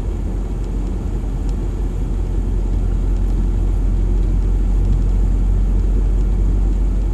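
Audi Quattro car driving on a snowy road: a steady low rumble of engine and road noise, heard from inside the car, growing a little louder about two seconds in.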